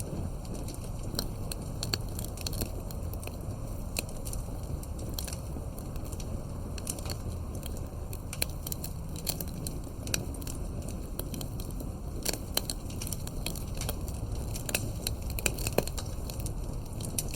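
Fireplace crackling: irregular sharp pops and snaps over a low, steady rumble.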